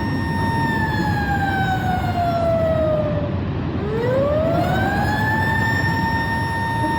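A siren wailing: it holds a steady pitch, slides slowly down for about three seconds, then winds back up to the same pitch and holds there, over a steady low rumbling noise.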